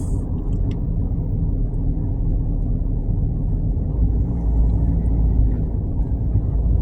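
Steady low rumble of road and engine noise inside a small car driving at highway speed, growing heavier in the lowest register about four seconds in.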